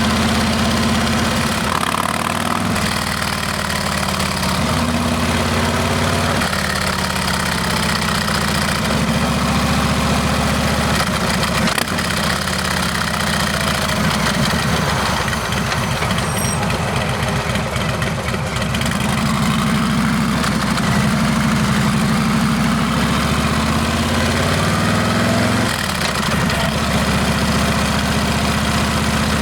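Harley-Davidson Milwaukee-Eight V-twin with a Rinehart exhaust running through the pipes on a ride, its engine speed rising and falling several times.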